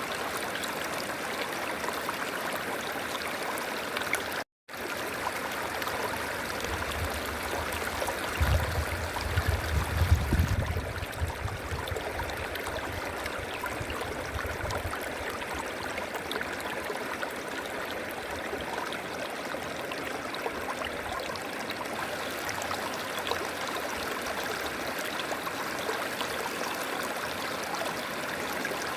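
River water flowing steadily over stones, an even rushing and babbling. The sound cuts out completely for a moment about four and a half seconds in, and a low rumble rises under the water from about seven seconds in, is loudest around ten seconds, and fades by fifteen seconds.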